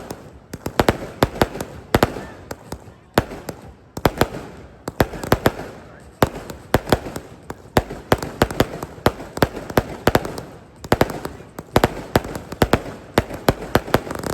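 Aerial festival fireworks bursting in rapid volleys: bunches of sharp bangs and crackles, several a second, with a rumbling echo between the bunches.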